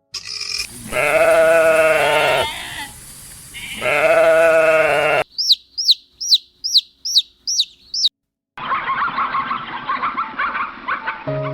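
A goat bleating twice, each bleat long and wavering. It is followed by a run of about nine quick high chirps that fall in pitch, about three a second, and then a busy patch of high chattering.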